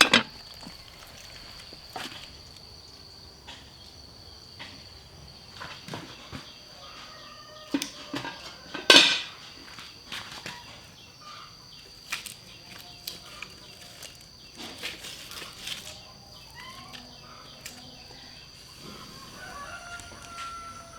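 Yard sounds: faint bird calls and scattered light knocks over a steady high-pitched whine, with one louder clatter about nine seconds in.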